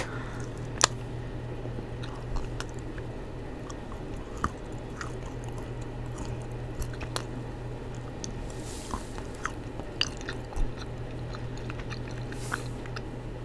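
Chocolate spoon being bitten and chewed close to a microphone turned up to high gain: scattered small crunches and mouth clicks over a steady low hum.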